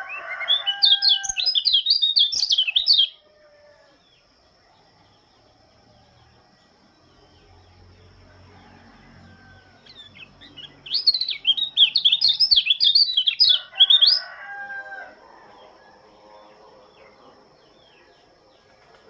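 A pleci (Lombok white-eye) sings twice. Each song is a fast, high warbling phrase that rushes up and down in pitch and lasts about three seconds, the second starting about ten seconds in.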